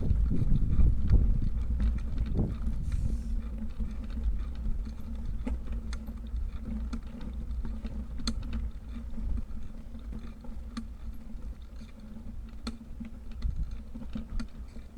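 Low riding rumble from a bicycle on the move, easing off over the first few seconds, with scattered light clicks and rattles.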